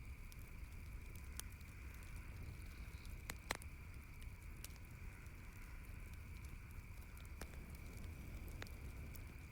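Campfire crackling softly, with scattered small pops and one sharper pop about three and a half seconds in, over a steady low background hiss.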